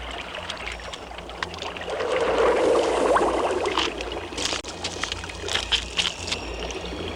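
Water splashing and sloshing, with a louder surge about two seconds in and several sharp splashes a couple of seconds later, over a faint steady low hum.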